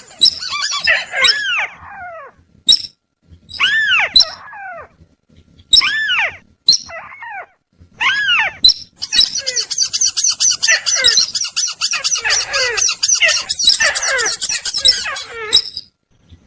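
Bird-trapping lure recording of sintar and tikusan (crake) calls. Loud down-slurred calls repeat about every two seconds, with sharp clicks between them. From about nine seconds until near the end, a dense, rapid, high chattering trill takes over.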